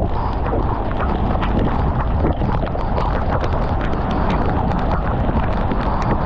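Wind and heavy rain rushing over the microphone on a moving motorcycle, a steady loud rush with frequent sharp taps of raindrops striking it.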